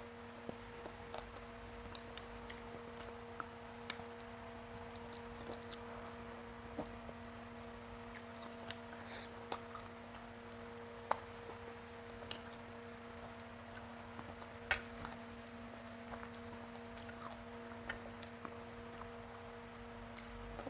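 Close-up eating sounds of a person eating fish by hand: chewing with soft wet smacks and scattered sharp mouth clicks, over a steady low hum.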